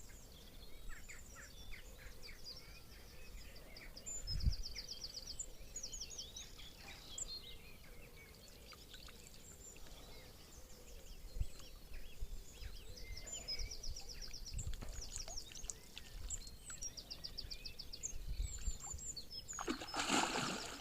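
Songbirds singing and calling, with repeated high trills several times, over a few low knocks. Near the end a brief loud rush of noise.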